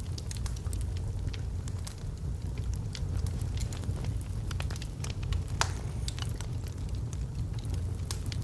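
Log fire burning in a fireplace, crackling with many small irregular pops over a low steady rumble. One louder pop comes about five and a half seconds in.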